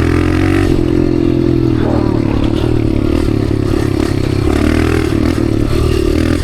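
Dirt bike engine running at a fairly steady speed while being ridden, its pitch wavering slightly, with light clattering from the bike and trail.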